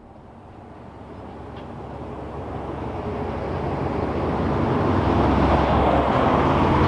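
A narrow-gauge train on the Ffestiniog Railway, its running noise growing steadily louder, with a low steady engine drone coming up toward the end.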